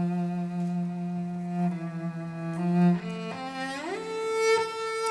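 Solo cello playing a long held low note, then sliding up to a higher held note about three seconds in.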